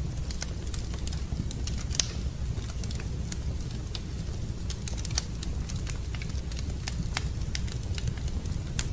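Wood fire crackling in a fireplace: scattered sharp pops and crackles over a steady low rumble, with a louder pop about two seconds in and another about five seconds in.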